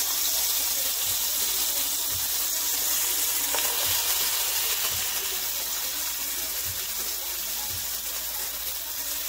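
Minced garlic and chopped green onions sizzling in hot olive oil in a frying pan: a steady hiss that eases slightly near the end.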